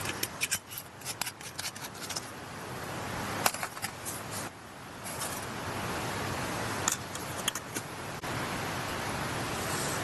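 Short, sharp clicks and light metallic clinks of small utensils being handled, over a steady rushing hiss of a mountain stream.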